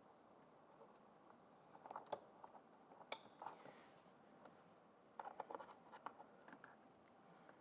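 Faint scattered clicks and rustling of plastic parts being handled, in clusters about two, three and five to six seconds in, as wiring harness connectors are fitted inside a car door.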